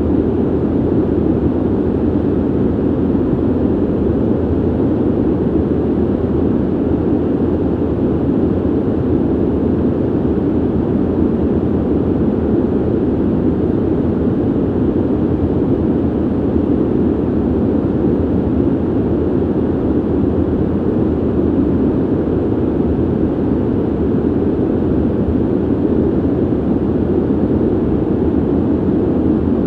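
Steady ventilation noise: a constant, even rush of air from a vent or duct, deep and dull, with little hiss.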